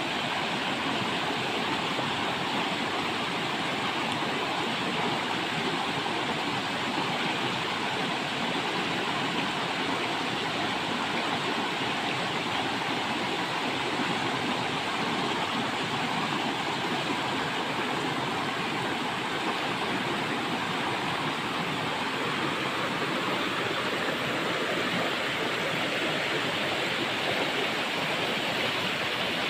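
River water rushing and splashing steadily over rocks, an even, unbroken rush.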